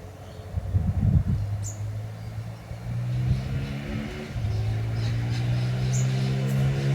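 Old Dodge truck engine sputtering about a second in, then settling into a steady run, its speed picking up a little about four and a half seconds in. Birds chirp a few times.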